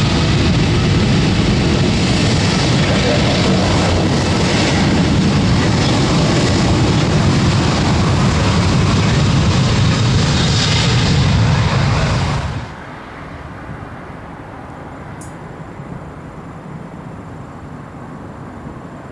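Airbus A340-600's four Rolls-Royce Trent 500 jet engines roaring steadily at take-off power, heavy in the low end. The roar cuts off suddenly about twelve seconds in, leaving a quieter background with a faint high whistle.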